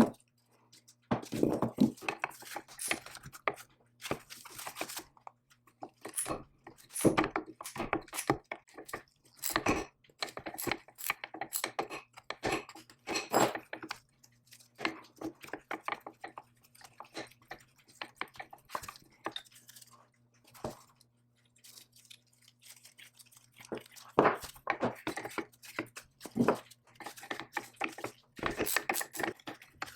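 Irregular knocks, clicks and scraping of hand work on the power hammer's metal parts, in clusters with a quieter stretch past the middle, over a faint steady low hum.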